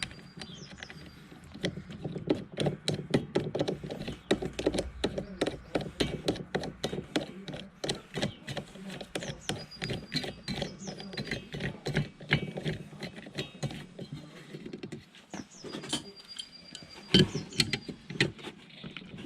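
Fast run of metallic clicks from a hand tool tightening the lawn mower blade's single centre screw, thinning out after about two thirds of the way, with a few louder clicks near the end.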